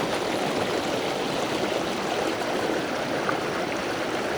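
Creek water flowing steadily over rocks, a constant rushing.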